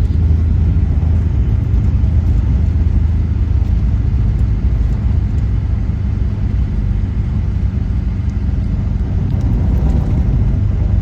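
Vehicle driving down a mountain road: a steady low rumble of engine and tyres with no change in pace.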